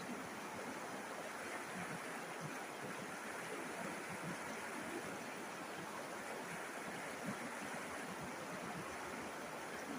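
River water running and rushing over stones, a steady burble with small splashes throughout.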